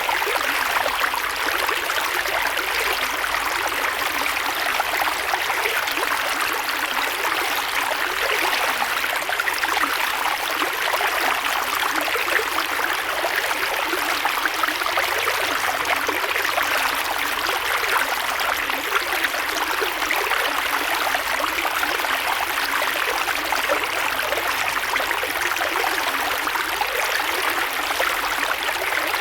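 Creek water flowing steadily over rocks, an even rushing and trickling that stays constant.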